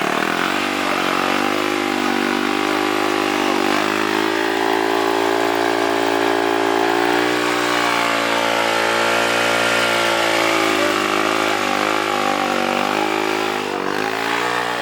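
A single off-road racing engine held at steady high revs for a long stretch, its pitch wavering slightly and dipping briefly twice. The sound drops away right at the end.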